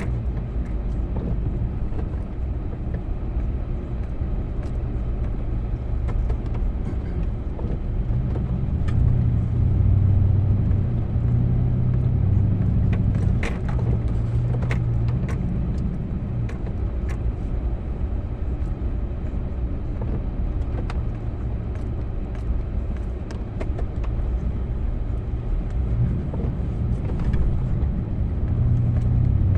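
Snow plow vehicle's engine running with a steady low drone, swelling louder for several seconds at a time as it works, with scattered sharp clicks and knocks.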